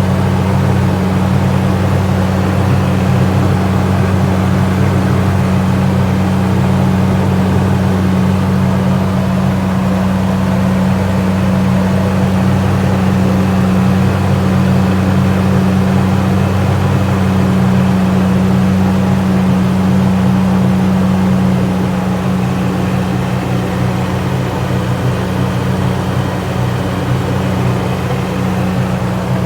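Supercharged Toyota 3.4-litre V6 idling steadily after a cold start, getting a little quieter from about 22 seconds in.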